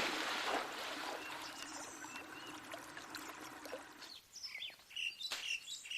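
Running water, fading over the first few seconds, then a cut to birds chirping in short, high notes, with one sharp click near the end.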